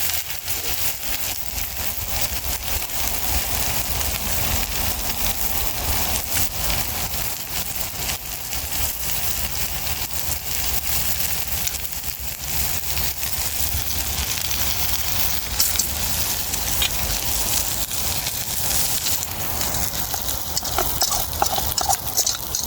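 Big steak frying in an overcrowded pan over a campfire: a steady, subdued sizzle with fine crackling, held down because the crowded pan keeps it from searing well.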